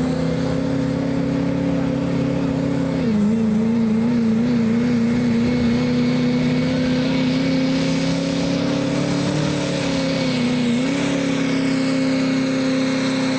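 Work stock diesel pickup truck engine held at high revs under full load while pulling the sled. The pitch sags and wavers briefly about three seconds in and again near the end, and a high whine above it grows stronger in the second half.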